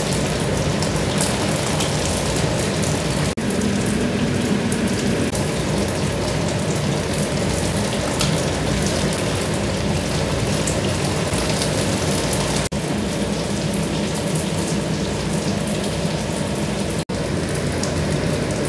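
Taro cakes deep-frying in a pan of hot oil: a steady sizzle and crackle, broken by three momentary gaps.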